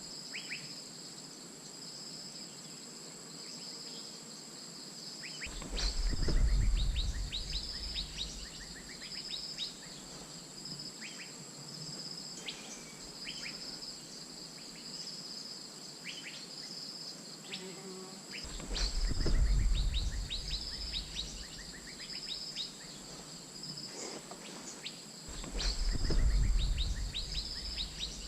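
Asian fairy-bluebird calling: series of short, sharp whistled notes, coming in three louder bouts about six, nineteen and twenty-six seconds in, over a steady, pulsing, high-pitched insect drone.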